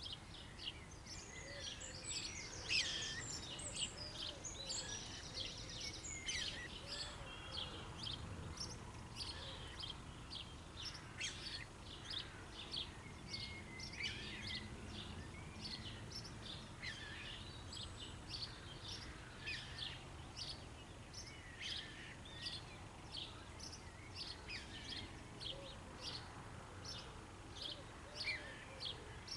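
Several songbirds singing and calling together, a dense run of short chirps and warbled phrases, over a low steady background rumble.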